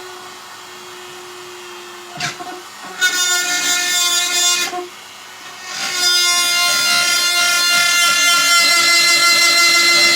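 A power tool's motor whines steadily as it cuts a hole in a box. About three seconds in the cutting turns loud and harsh, drops off briefly near five seconds, then comes back and keeps going loudly.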